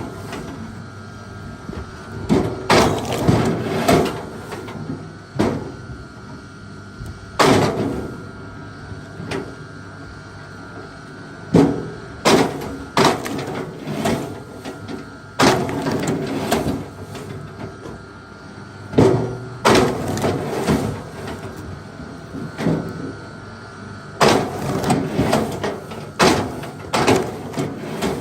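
Irregular wooden knocks, clunks and scrapes, a dozen or so, some short and some drawn out, as heavy pieces of wood are handled and knocked together.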